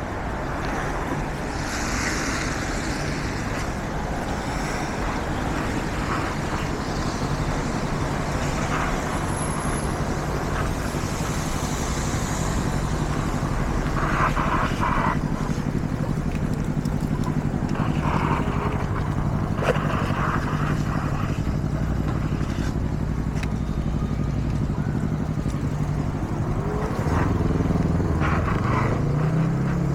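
Steady wind and tyre noise from riding a fat-tyre e-bike on wet roads, with a low steady hum underneath. Near the end a motor vehicle goes by, its engine note rising and falling.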